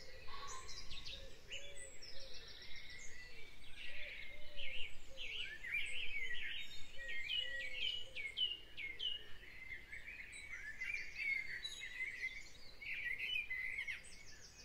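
Birds chirping and singing, many overlapping quick calls and short falling whistles, over a faint steady background hiss.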